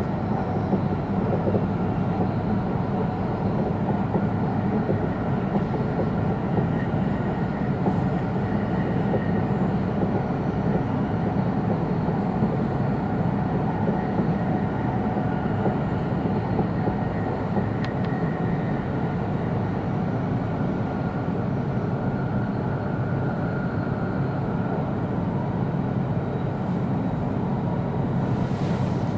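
E2-series Shinkansen passenger car running along the line, heard from inside the cabin: a steady low rumble of wheels and running gear with faint steady whine above it, a little more hiss near the end.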